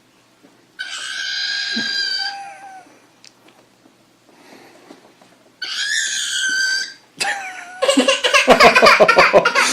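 An animal gives two long, high-pitched calls a few seconds apart. Near the end comes a louder, fast run of pulsing, pitched sounds.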